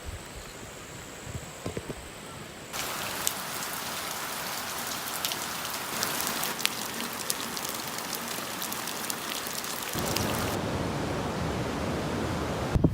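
Rain falling steadily, with many sharp drop hits on a surface. The rain sound jumps abruptly louder about three seconds in and changes again near the end.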